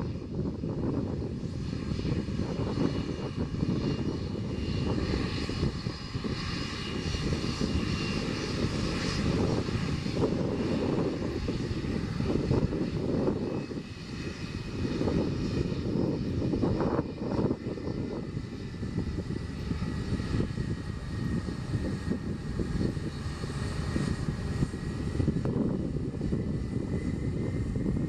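Aircraft engines running: a steady low rumble with several high whining tones over it, one of which rises slowly over the last several seconds.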